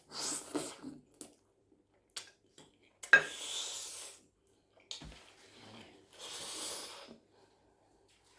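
Close-miked eating sounds at a plate of spaghetti: three noisy rushes of air about a second long each, the middle and loudest one opening with a sharp click, with light clicks of cutlery on the plate between them.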